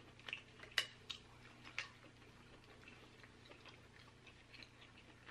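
Faint scattered clicks and small crackles from king crab legs being handled and eaten, sharpest in the first two seconds, then fainter.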